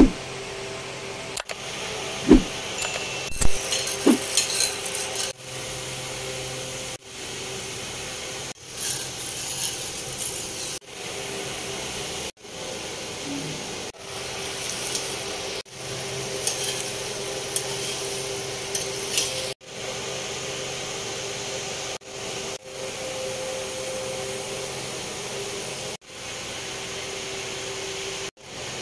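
Masala and potatoes sizzling in a steel frying pan, with a spatula clinking against the pan a few times in the first few seconds. The hiss is steady but keeps cutting off and restarting abruptly.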